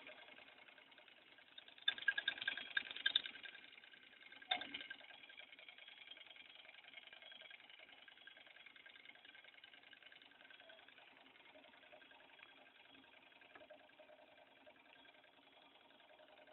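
Small model Stirling engine running with a faint, steady mechanical whir, with a burst of rattling about two seconds in and a single knock a couple of seconds later.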